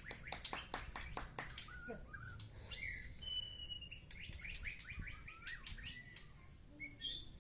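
White-rumped shama (murai batu) singing: quick runs of sharp sweeping chirps, with a clear held whistle about three seconds in.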